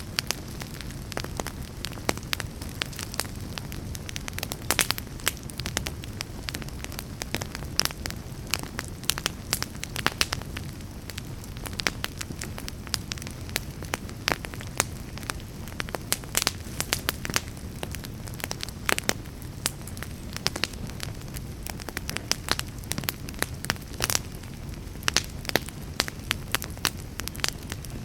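Wood fire burning in a fireplace: a steady low rumble of flames with frequent sharp crackles and irregular louder pops.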